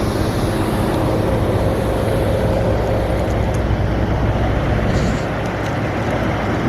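Motor vehicle running steadily: a low engine drone with road noise.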